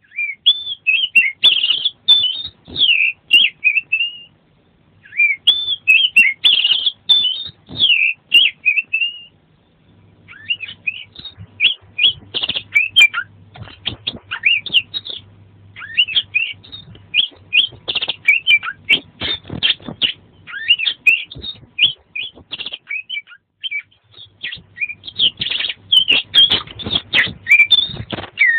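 Oriental magpie-robin (kacer) singing vigorously: a fast, varied run of loud whistled and chattering phrases, with short pauses about 4 and 9 seconds in.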